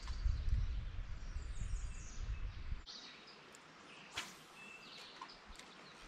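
Outdoor ambience with small birds chirping: a quick run of short, high, falling chirps, then scattered single notes. A low rumble stops about three seconds in, and a couple of faint clicks fall near the middle.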